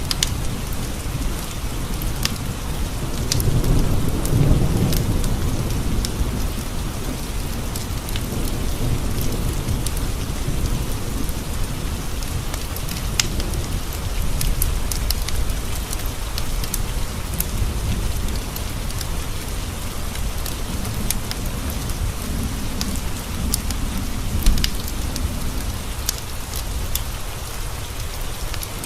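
Steady rain on the windows with a low rumble of thunder swelling a few seconds in and fading, over a wood fire crackling with scattered sharp pops.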